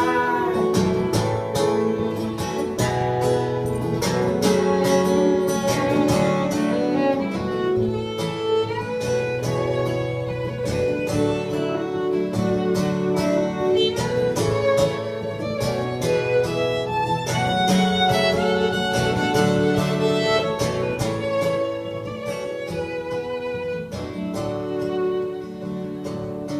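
Instrumental break of an acoustic folk song: a violin playing the melody over a strummed acoustic guitar.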